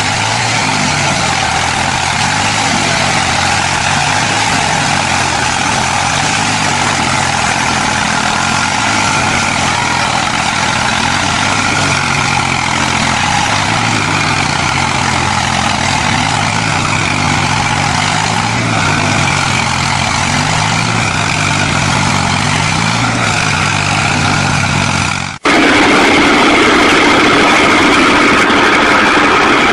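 Tractor engine running steadily. About 25 seconds in, the sound cuts off abruptly and a second engine takes over, a little louder and with a steadier hum.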